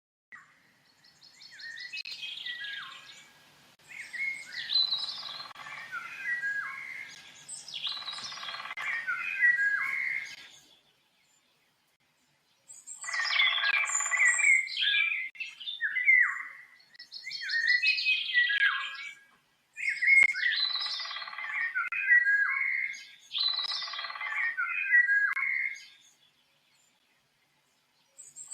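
Songbird singing: bursts of quick chirps and warbled notes in phrases several seconds long, with two pauses of silence between them.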